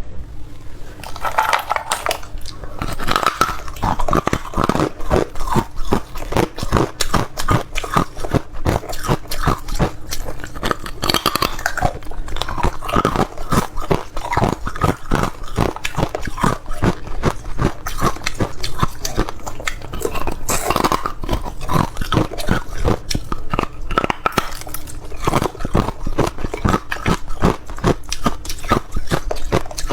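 Close-up crunching of a person biting and chewing hard ice, a dense run of sharp cracks and crackles that goes on without a break.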